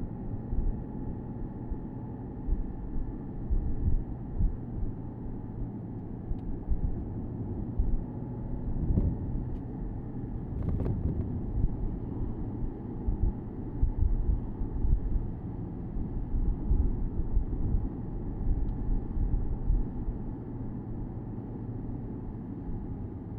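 Porsche Boxster S (987.2) 3.4-litre flat-six running steadily at a cruise, heard from the open-top cabin over a low rumble of road and wind. A brief click about eleven seconds in.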